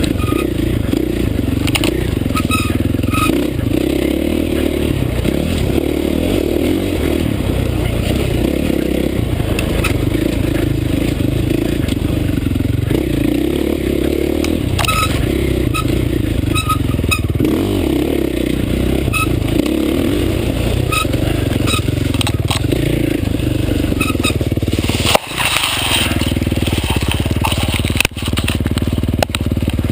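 Dirt bike engine running steadily while riding a trail, heard from a helmet camera, with scattered clicks and knocks. The sound drops briefly twice near the end.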